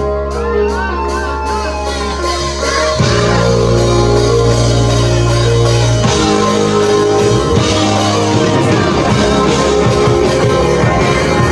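A rock band playing live: held chords, then the full band with drums and guitar comes in louder about three seconds in.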